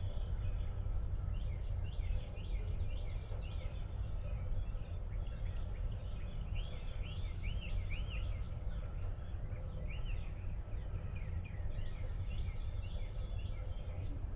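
Several songbirds chirping and singing in quick repeated phrases over a steady low background rumble.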